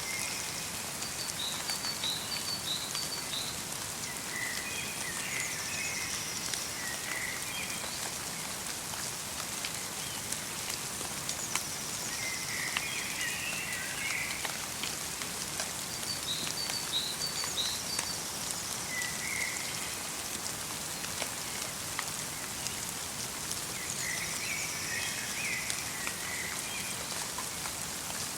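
Light rain mixed with snow falling steadily in a forest, with fine drop ticks. Small songbirds sing short twittering phrases that come back every five seconds or so.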